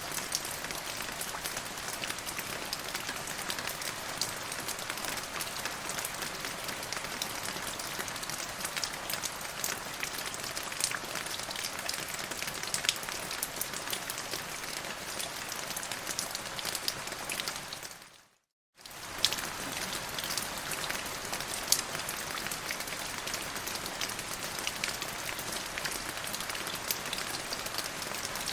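Steady rain falling on a surface, with individual drops ticking sharply through the hiss. About two-thirds of the way in, the sound fades out to silence for a moment and then comes back as before.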